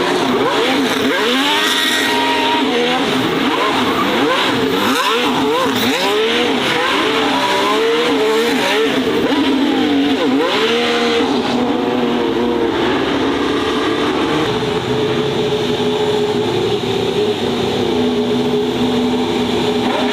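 Racing car engines revving hard, the pitch rising and dropping again and again with gear changes and throttle blips. From about twelve seconds in, a steadier engine note holds.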